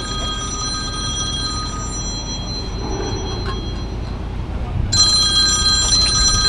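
A steady, high-pitched electronic ringing tone with a fast warble, growing louder about five seconds in, over a low background rumble.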